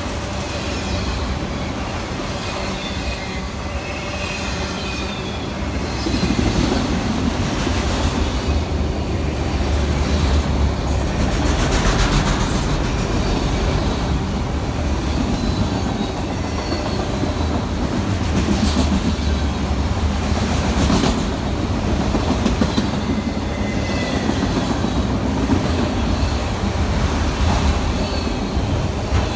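Freight train rolling past: steady rumble of the cars, with wheels clicking over the rail joints and a faint wheel squeal.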